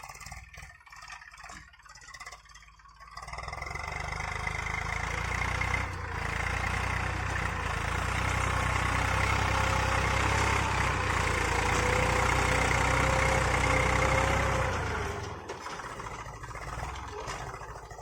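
Eicher 380 tractor's diesel engine running steadily, growing loud about three seconds in and dying away after about fifteen seconds, as if passing close by.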